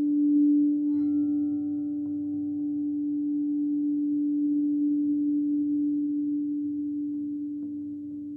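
Singing bowl sounding one steady low ringing tone that slowly fades, with a light tap about a second in adding higher ringing overtones.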